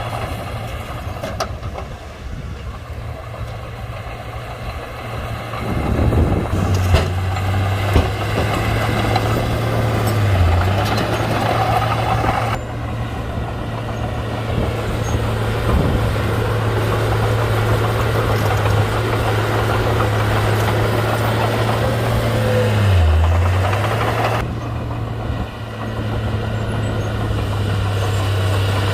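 Komatsu D31-P bulldozer's diesel engine running steadily, its pitch dipping briefly twice: once about a third of the way in and again about three quarters through.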